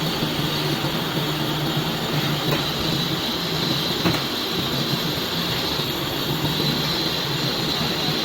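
Metal lathe running: a steady mechanical hum with a thin, high, squeal-like whine over it, and a brief click about four seconds in.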